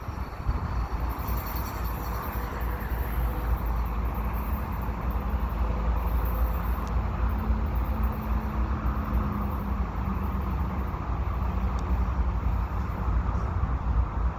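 Steady low rumble and hum of a slow-moving freight train's GE diesel locomotives, an ES44AC and an AC4400CW, running, mixed with road-traffic noise.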